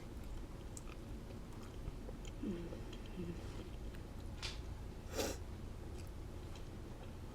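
A person chewing a mouthful of soft tortilla taco with spicy black bean filling, with small wet mouth clicks and two louder, sharper mouth sounds about four and a half and five seconds in.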